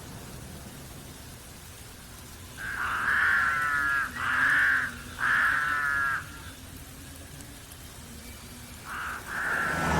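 A bird gives three harsh, drawn-out calls in quick succession, then more calls begin near the end.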